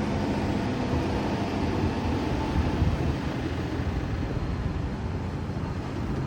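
Heavy tow truck's engine running with a steady low rumble.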